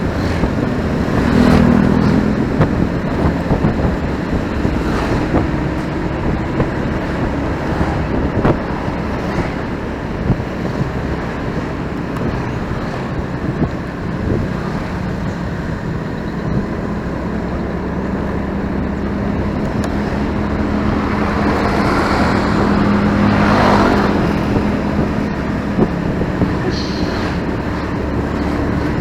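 Motorcycle riding through city traffic: the bike's engine hums steadily under wind and road noise, with other vehicles passing. The traffic swells louder about three-quarters of the way through.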